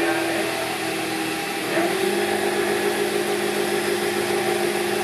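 Electric motor of a workshop drilling machine running steadily. About two seconds in its hum steps up slightly in pitch and gets a little louder.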